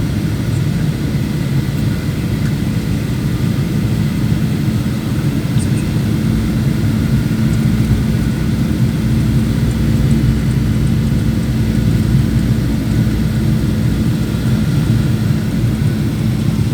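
Steady engine and airflow noise inside a passenger aeroplane's cabin on the landing approach: an even low roar with a constant hum underneath.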